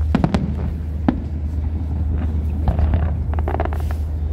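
Fireworks going off: a few sharp bangs in quick succession at the start and another about a second in, over a steady low rumble.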